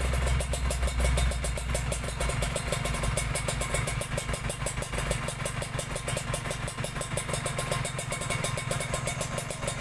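Kawasaki Ninja 150 RR two-stroke single-cylinder engine idling through a cheap KDX Racing aftermarket racing exhaust. It makes a steady, rapid, even pulse, with a little more low rumble in the first second or so.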